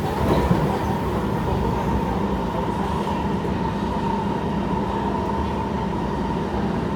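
Kawasaki C151 electric multiple unit train running along the line, heard from aboard: a steady rumble of wheels on rail with an even hum held at one pitch. A brief louder knock comes about half a second in.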